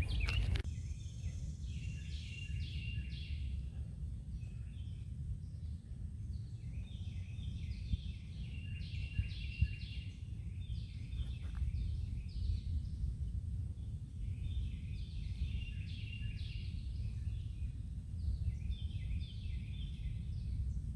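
Birds singing in repeated short phrases of quick falling chirps, over a steady low rumble.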